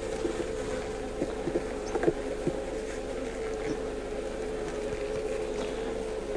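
Honeybees buzzing around an open Langstroth hive, a steady wavering drone, with a few light clicks and knocks in the first two or three seconds as a frame is lifted out of the honey super.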